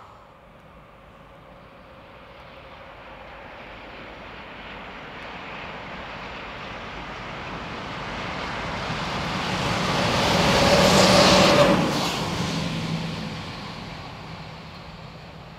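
A train passing by: it grows steadily louder, is loudest about eleven seconds in, then fades away.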